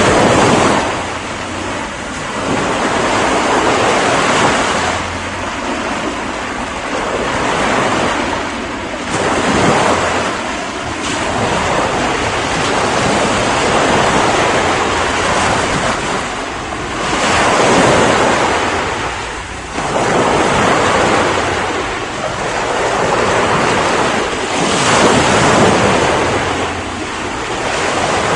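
Ocean waves breaking and washing on a shore, a steady rush of surf that swells and eases every few seconds as successive waves come in.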